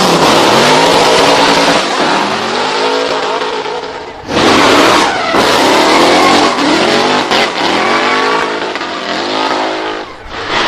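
Drift car engine revving hard and rising and falling in pitch, with tyres squealing and scrubbing under it. The engine dips and then comes back in loud about four seconds in.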